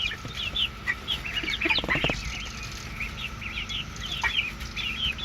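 Backyard chickens clucking and giving a steady stream of short, quick high calls while they feed on cicadas, with a lower cluck about two seconds in. A steady high hum runs underneath.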